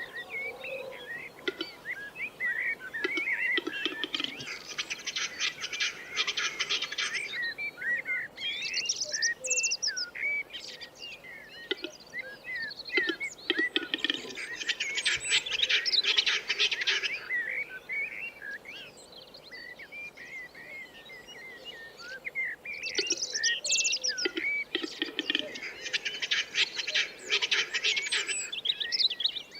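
Wild birds chirping, with one bird singing a long, rapid run of notes three times, about ten seconds apart.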